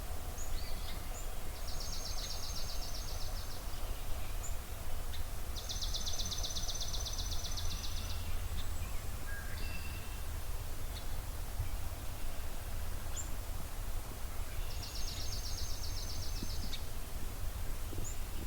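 Dawn birdsong: a small songbird sings a fast, even trill of rapid high notes three times, each about two seconds long. Short chirps from other birds are scattered between, over a steady low rumble.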